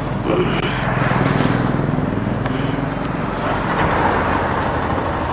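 Motorcycle running on the road in traffic, a low steady engine note under road and wind noise.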